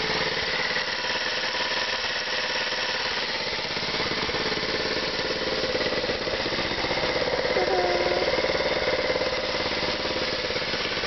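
2007 Baja 90cc four-stroke dirt bike engine idling steadily, getting slightly louder for a couple of seconds past the middle.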